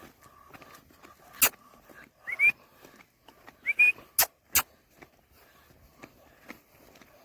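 Two short whistles, each rising quickly and then holding its pitch, about a second and a half apart. Several sharp clicks or knocks fall around them.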